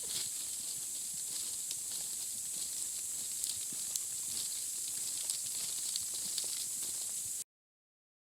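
A steady high hiss with scattered faint ticks that cuts off suddenly near the end.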